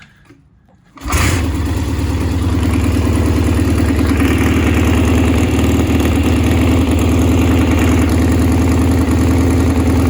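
Cheney Triumph 750 motorcycle engine on a cold start: it fires and catches abruptly about a second in, then runs on at a steady idle.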